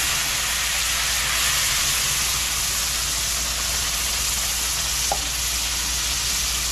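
Hot oil sizzling steadily in a pot as food fries in it.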